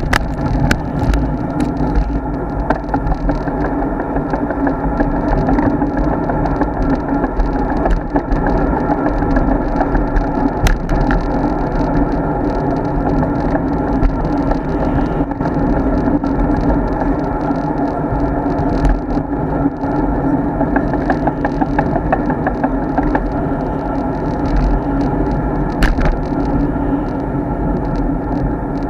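Steady rumble and rattle of a road bike being ridden, heard through the bike-mounted action camera, with many small clicks and knocks scattered throughout.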